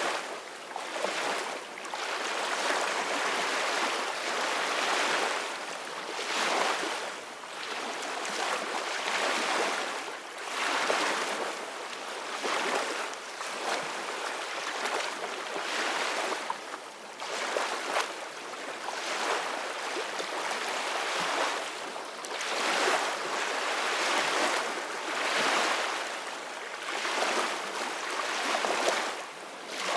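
Ocean waves breaking and washing on the shore, a steady hiss that swells and falls every two to three seconds.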